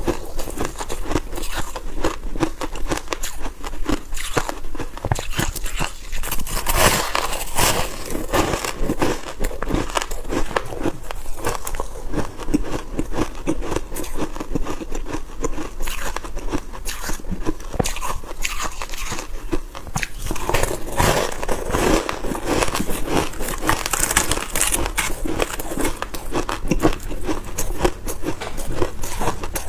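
Soft freezer frost being bitten and chewed, a steady dense crunching and crackling of many small crisp snaps.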